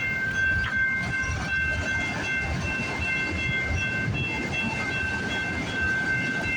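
Freight train rolling past: a steady rumble of rail cars with wheel clicks over rail joints, and a steady high-pitched tone throughout.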